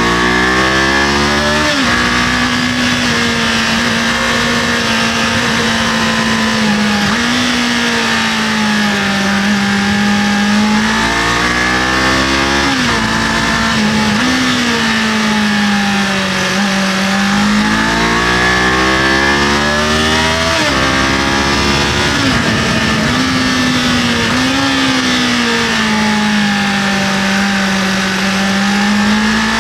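Kawasaki KLE500 motorcycle's parallel-twin engine under way, its pitch climbing several times as the bike accelerates and dropping back between pulls.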